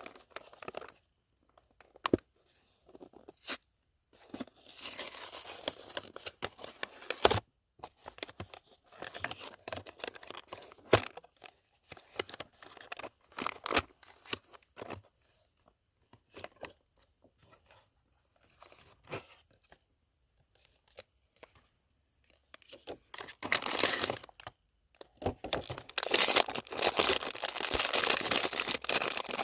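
Packaging being torn open and crinkled by hand, in rustling bursts with short pauses and a few sharp clicks and taps between them; the rustling is thickest near the end.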